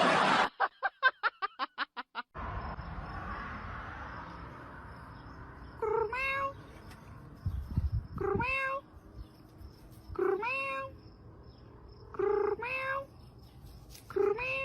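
A cat meowing five times, about two seconds apart, each meow rising and then holding its pitch. Near the start comes a quick run of short pulses, about eight a second, lasting under two seconds.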